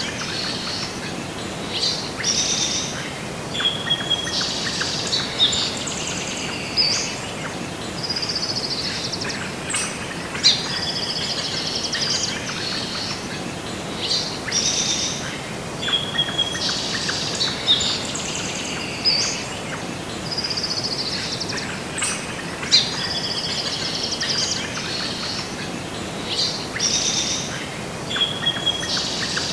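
Birds chirping and singing, many short calls and trills over a steady background hiss; the same run of calls repeats about every twelve seconds.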